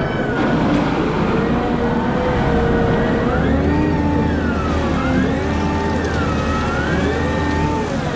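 Wheel loader working: its engine runs with a steady low hum, while several whining tones rise and fall over a second or so, most strongly from about three seconds in.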